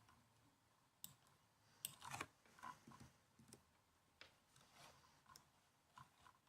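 Faint typing on a laptop keyboard: irregular, scattered key clicks starting about a second in, with a short flurry around two seconds.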